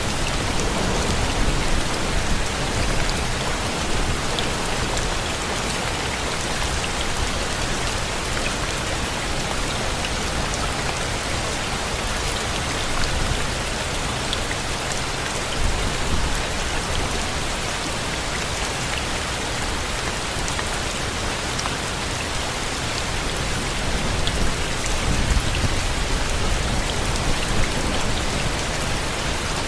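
Steady rain falling on surfaces, with scattered sharp raindrop ticks. A low rumble swells a few times, most strongly near the end.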